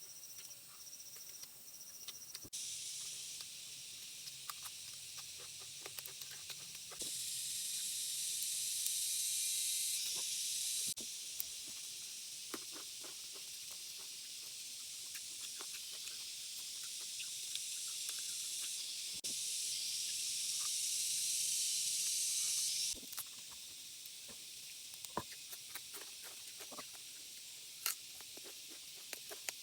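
Steady hiss of rain with scattered drips and light taps, stepping louder and softer at several abrupt cuts.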